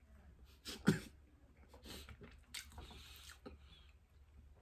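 Close-up chewing of a soft bread sandwich with ham or turkey and cheese, with wet mouth sounds, irregular faint crinkles of its plastic wrap, and one louder thump about a second in.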